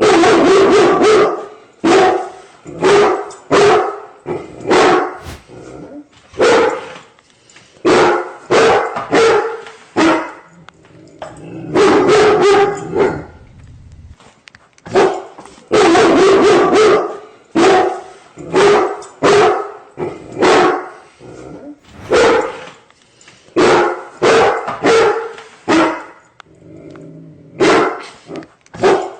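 A dog barking repeatedly, in quick runs of several barks with short pauses between the runs.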